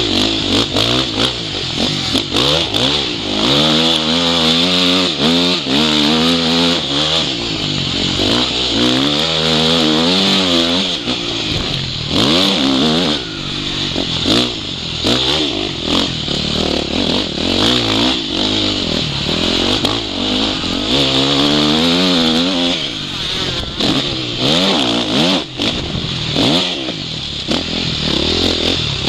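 Motocross bike engine revving hard and easing off again and again as it is ridden around a dirt track, picked up by a microphone built into the rider's goggles, with a constant rushing noise over it.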